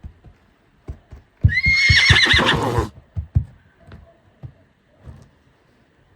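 A recorded horse whinny sounding once for about a second and a half, a high call that wavers and falls away, with scattered light taps and clicks before and after it.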